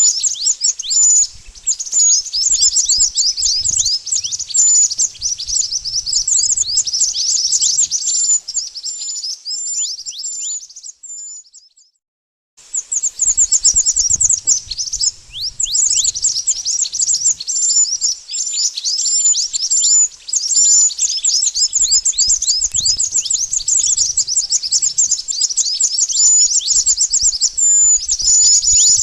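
Mantenan birds chirping and twittering in a dense, rapid stream of high-pitched notes. The sound cuts out for about a second and a half roughly 11 seconds in, then resumes just as busily.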